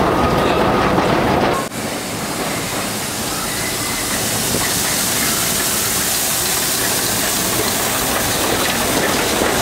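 Dreamworld Railway narrow-gauge park train running, first heard from on board, then from the trackside as it approaches and passes with a steady hiss that slowly grows louder.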